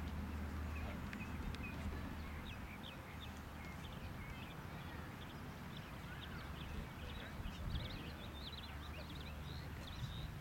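Birds chirping: many short, high calls scattered throughout, growing busier after a few seconds, over a low steady rumble.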